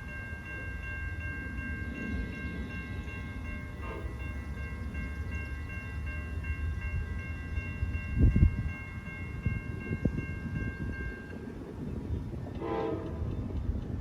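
NJ Transit train passing with its horn sounding one long steady chord that cuts off sharply about three quarters of the way in, over the rumble of the train. Two thumps follow, then a short pitched blast near the end.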